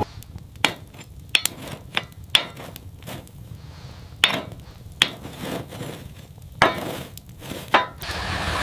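A series of sharp, irregularly spaced knocks and clinks, about eight loud ones with smaller clicks between, like hard objects being handled or struck. A steady hiss comes in near the end.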